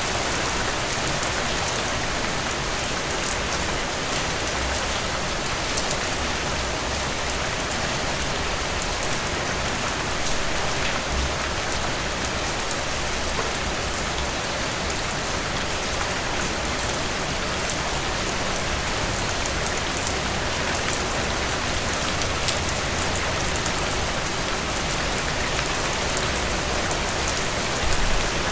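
Steady rainfall: a dense, even hiss of rain with fine individual drops pattering on surfaces. A short, louder low swell comes near the end.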